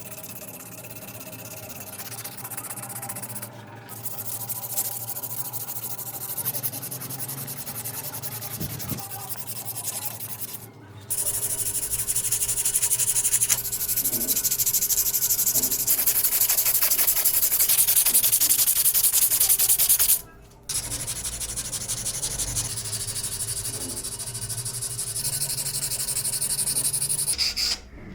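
Sanding: a steady, rasping abrasion in several takes, each cut off suddenly, loudest in the middle stretch.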